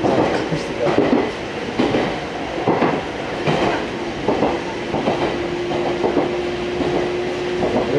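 Fukui Railway Fukubu Line train running, heard from inside the car: uneven clatter of the wheels over the rail joints, with a steady hum joining about halfway through.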